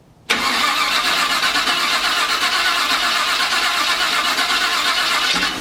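Chevy C10 truck's engine being cranked over by the starter motor for the first time in two years: a steady cranking that starts abruptly just after the beginning and stops about five seconds later without the engine catching.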